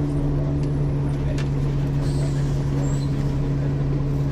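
Diesel engine of a 1994 Ikarus 435 articulated bus with ZF gearbox, running at a steady, unchanging drone, with a few faint clicks over it.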